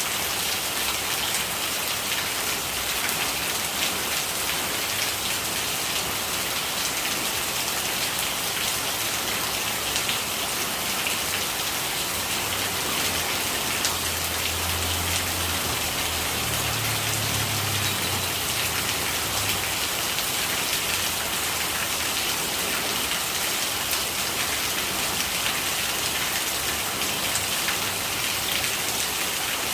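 Steady rain pattering on surfaces, with dense drops and gurgling rainwater. A low rumble swells and fades about halfway through.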